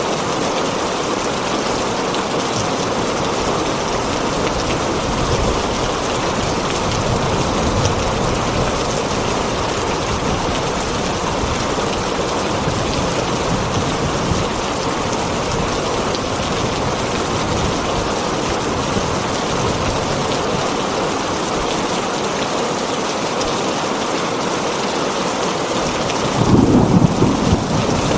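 Heavy rain falling steadily on a tin roof. Near the end, a low rumble of thunder rises over it.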